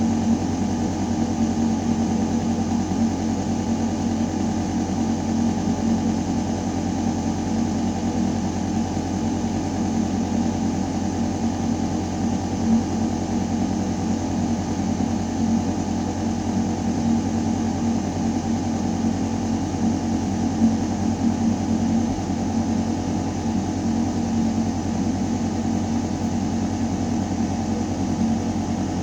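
Building ventilation system running: a steady, deep mechanical hum of fans and air moving through metal ducting, with a faint hiss of air on top.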